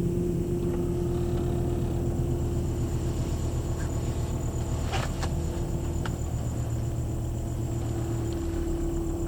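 2000 Volvo V70 XC's turbocharged five-cylinder engine idling steadily just after a cold start, with a couple of faint clicks about halfway through.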